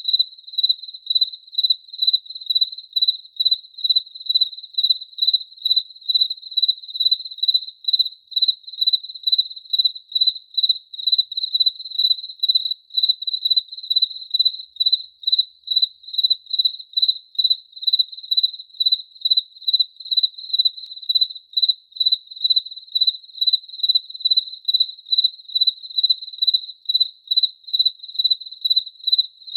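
Cricket chirping in a steady, even rhythm of about two to three high chirps a second, all on one pitch.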